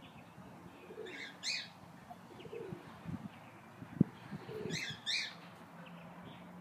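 A bird chirping twice in the background, each time a pair of short high notes. A single sharp click about four seconds in.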